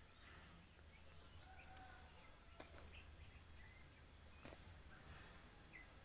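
Near silence: quiet outdoor background with a few faint, brief bird chirps and a couple of soft clicks.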